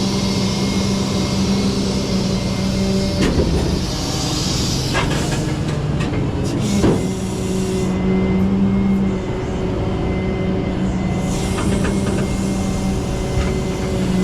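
Flatbed tow truck running with a steady drone while it is driven forward out from under a pickup on its tilted bed. A few sharp knocks and clunks sound around 3, 5 and 7 seconds in, and the drone drops out and comes back partway through.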